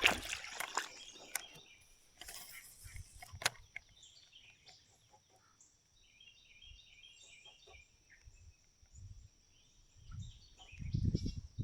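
Quiet creekside outdoor ambience: a bird chirping in quick runs of notes over a steady high-pitched hum. Rustling and sharp handling clicks in the first few seconds, and low rumbles near the end.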